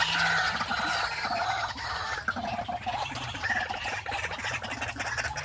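Several caged birds calling over one another, short calls overlapping throughout.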